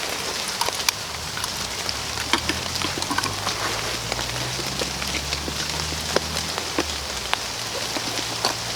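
Steady rain falling, with many single drops striking close by as sharp ticks. A low hum sounds underneath for several seconds in the middle.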